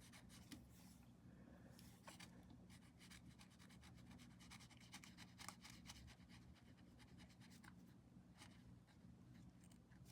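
Faint, irregular dabbing and light scratching of a paintbrush on paper, over a steady low hum.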